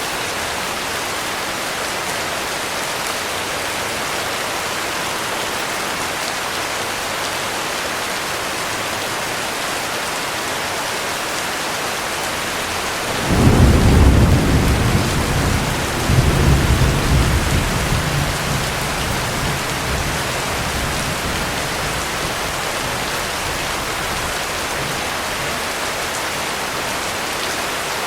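Steady heavy rain, with a clap of thunder about halfway through that rumbles deeply in two surges and fades over several seconds.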